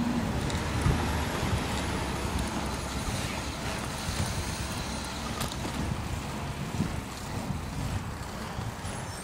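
Garbage truck engine running steadily.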